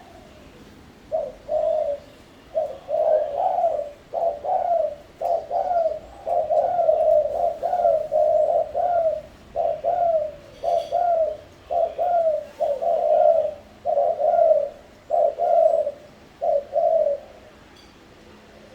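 Spotted dove (terkukur) cooing: a long series of short, repeated coos on the same low pitch, starting about a second in and stopping a little before the end.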